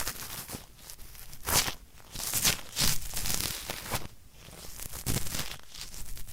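Ear-cleaning ASMR sounds: an ear-cleaning tool scraping and rubbing inside an ear-shaped microphone in a run of uneven, crackly strokes.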